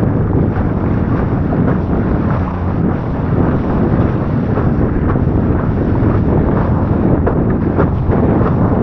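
Wind buffeting the microphone: a loud, steady, rough rumble that flutters unevenly.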